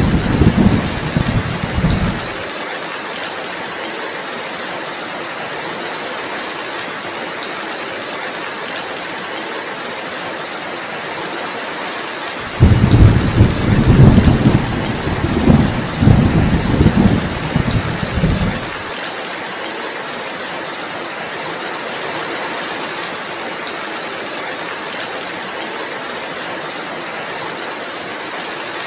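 Steady heavy rain, with deep thunder rumbling for the first two seconds and again for about six seconds in the middle.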